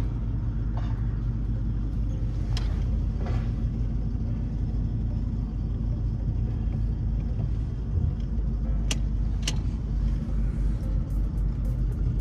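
LS-swapped box Chevy's V8 idling steadily through its new exhaust, a low even rumble, quiet. Two sharp ticks stand out about nine seconds in.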